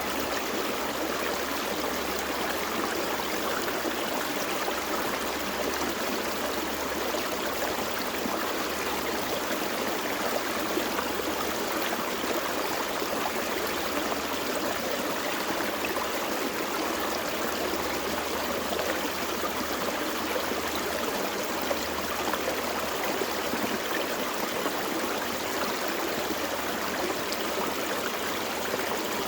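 A gentle forest stream flowing steadily, an even rush of water over rocks.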